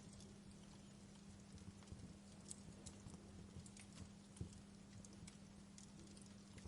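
Wood fire crackling softly in a fireplace: scattered, irregular small pops and snaps over a soft hiss, with a faint steady low hum underneath.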